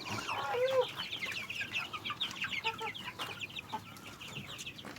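A brood of poultry chicks cheeping continuously, a dense run of rapid high peeps. A lower call from an older bird comes about half a second in.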